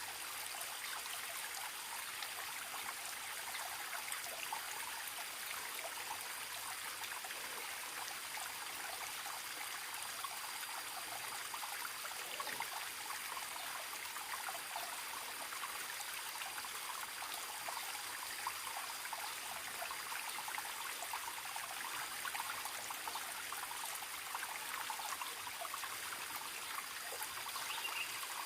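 Forest stream trickling and babbling steadily over stones, with a thin, steady high tone above the water.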